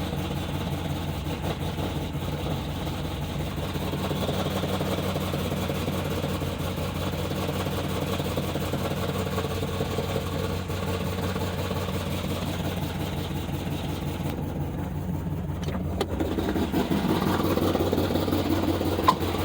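The cammed, DOD-deleted 6.0-litre V8 of a 2012 Chevrolet Caprice PPV idling steadily after start-up. It grows a little louder over the last few seconds.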